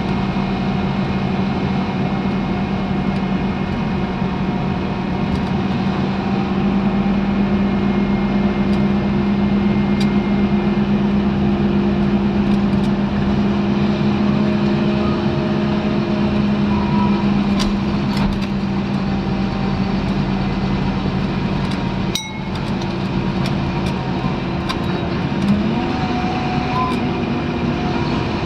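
Scania N230UD double-decker bus's five-cylinder diesel engine and drivetrain running under way with a steady hum. Its pitch steps up near the end.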